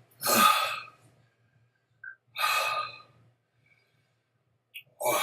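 A man breathing hard through his mouth, three heavy exhales about two and a half seconds apart, as he rides out the burn of a superhot Moruga Scorpion chili pepper.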